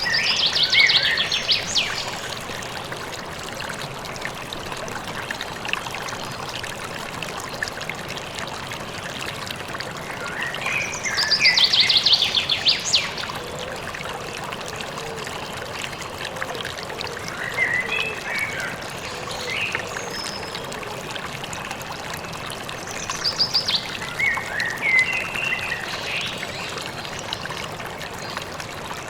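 Flowing river water running steadily, with a songbird singing a rapid trilled phrase about every ten seconds and shorter warbling chirps between the trills.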